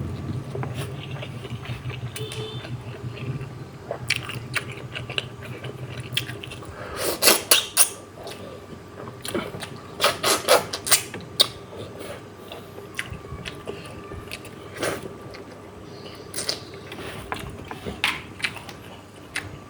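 Close-miked eating sounds: chewing and wet lip-smacking on soft, fatty fish head, coming in clusters of sharp smacks with pauses between. A low rumble underneath fades out after about six seconds.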